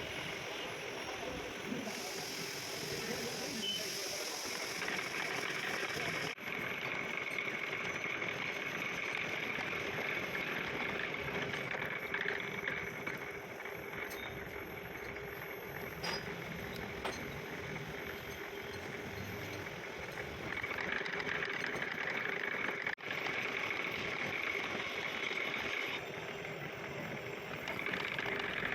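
A machine tool in a metalworking shop running steadily with a constant hum and whine. There are abrupt breaks about six seconds in and again near the end.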